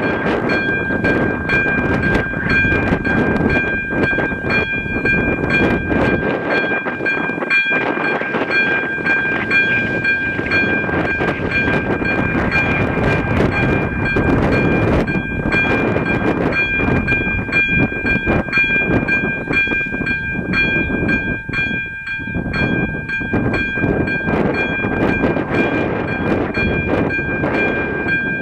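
Train running over the level crossing with a continuous rumble of wheels on the rails, while the crossing's ZV-02 electronic warning bell rings in a steady high-pitched repeating pattern.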